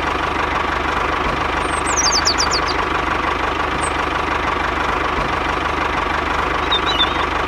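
An engine running steadily at idle with a fast, even knock.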